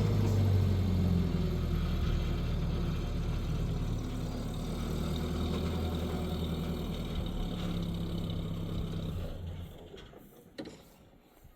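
Car engine running at idle just after starting, a little louder at first and then settling, before being switched off and dying away about nine and a half seconds in. A single knock follows about a second later.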